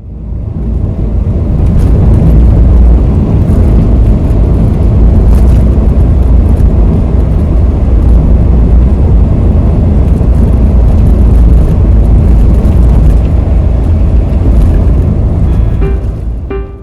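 A car driving along, its engine and road noise making a steady, loud rumble. The rumble fades out near the end as piano-like music notes come in.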